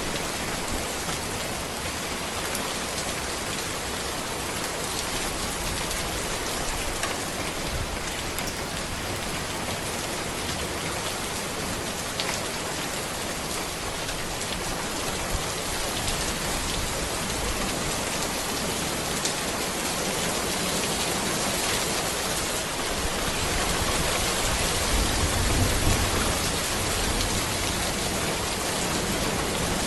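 Steady rain falling on a road among trees, an even dense patter with a few sharper drop ticks. A low rumble swells briefly about 25 seconds in.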